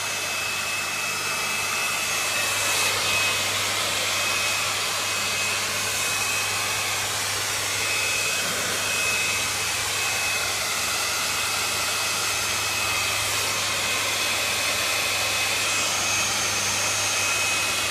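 Handheld hair dryer running steadily, a constant rush of air with a thin high whine over a low hum.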